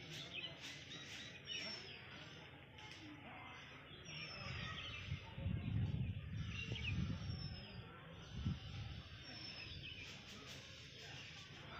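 Birds calling with short falling whistles every couple of seconds over steady outdoor background noise, with a low rumble for a couple of seconds in the middle.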